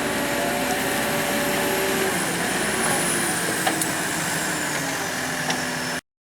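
A motor vehicle running steadily, with a faint high whine and a couple of light ticks. The sound cuts off abruptly near the end.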